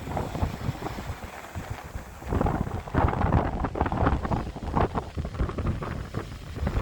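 Wind buffeting the microphone in irregular gusts, a low rumble that grows stronger a little over two seconds in.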